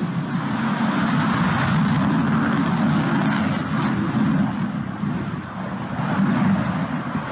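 F-16 fighter jet passing low in a tight turn: loud, steady rushing jet engine noise that eases for a moment about five and a half seconds in, then builds again.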